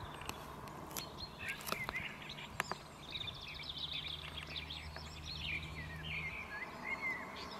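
Small birds chirping and twittering in quick, high, pitch-sliding calls through most of the stretch. A faint steady low hum sits underneath, with a few sharp clicks early on.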